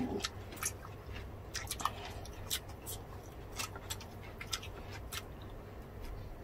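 Close-miked eating sounds: irregular wet chewing and lip-smacking clicks, a few every second, as two people eat roast chicken and grilled pork belly with their hands.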